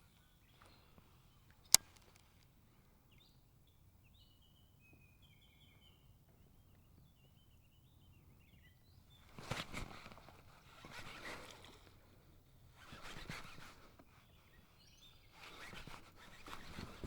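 A sharp click about two seconds in, then faint short bird chirps, followed by four swishing swells of noise about a second long each.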